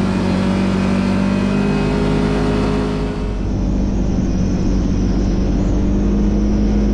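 Side-by-side UTV engine running at a steady cruising pitch, with a brief slight dip about three seconds in.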